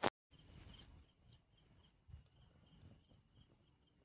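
Crickets and other night insects chirring steadily in faint, pulsing high trills, with a faint low rumble underneath. It starts just after a brief click and a moment of silence.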